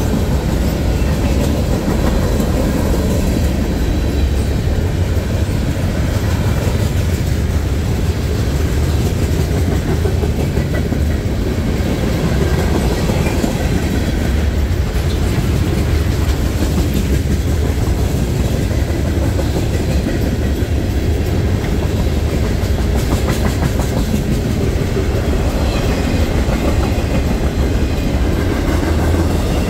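Freight train's cars rolling past, a steady low rumble of steel wheels on the rails with faint clicks over the rail joints.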